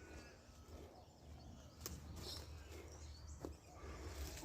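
Faint outdoor bush ambience with distant bird calls and a few soft clicks or snaps.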